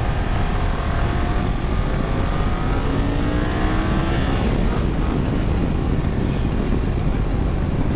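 BMW F 900 XR's two-cylinder engine revving up under hard acceleration, its pitch climbing steadily. Heavy wind rush on the helmet-mounted microphone.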